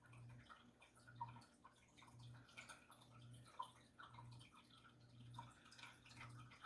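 Near silence: a faint low hum pulsing on and off about once a second, with scattered faint drips.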